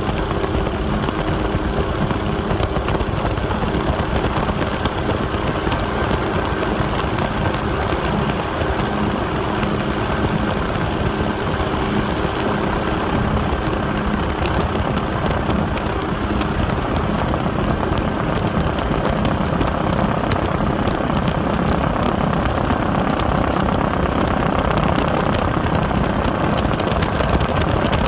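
A steady engine drone: a few constant tones over an even, continuous noise.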